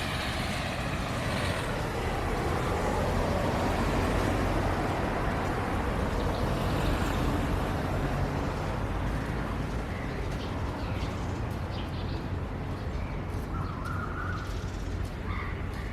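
A vehicle passing on a wet road in the rain: a steady low rumble with a tyre hiss that swells over the first few seconds and then slowly fades. A few short chirps come in near the end.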